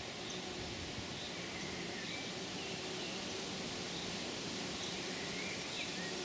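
Faint, scattered bird calls (short chirps and brief whistled slides) over a steady outdoor background hiss.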